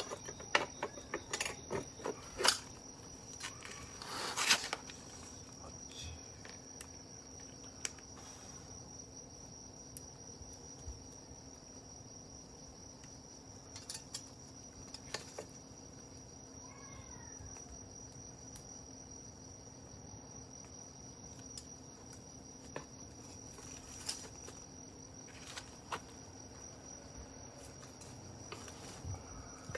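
Campfire crackling, with a cluster of sharp pops in the first few seconds and only occasional pops after that, over a steady high-pitched insect trill.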